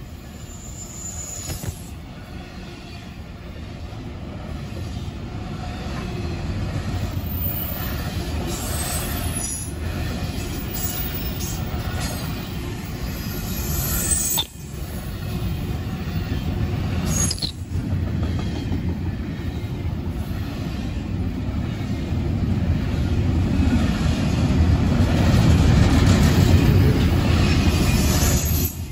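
Union Pacific double-stack intermodal freight train's well cars rolling past close by: a steady low rumble of steel wheels on rail, with brief faint high wheel squeals now and then, growing louder toward the end.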